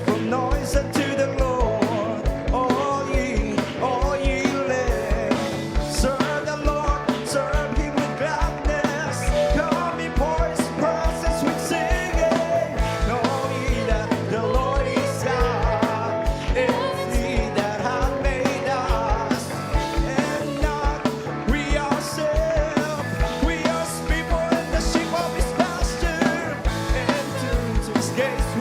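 Choir singing an upbeat gospel song with band accompaniment: a steady drum beat and a bass line under the voices.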